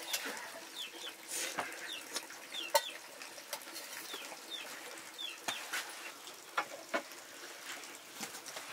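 Birds chirping: a run of short, falling peeps every half second to a second, with scattered clicks and knocks.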